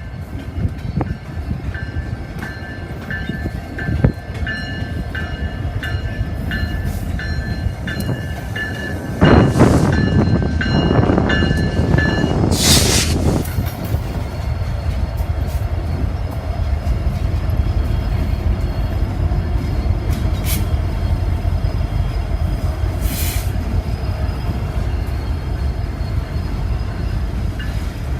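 Loaded coal train rolling past, a steady rumble of freight cars on the rails. For the first twelve seconds a ringing tone repeats about twice a second, and a louder rush of noise swells about nine seconds in.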